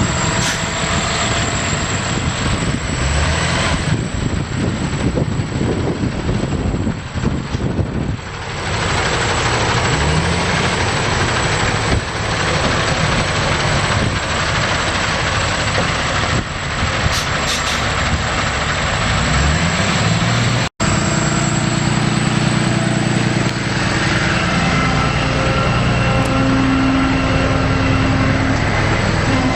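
Diesel engine of a 2008 Freightliner Business Class M2 bucket truck running, revving up a few times. It cuts out for an instant about two-thirds through, then runs steadily with a constant hum over it.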